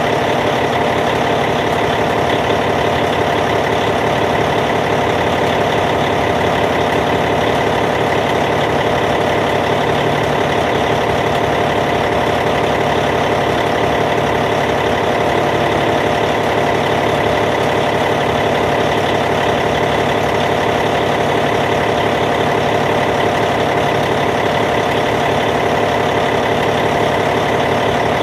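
Caterpillar C15 inline-six diesel engine of a D8T bulldozer idling steadily, with an even, unchanging rumble.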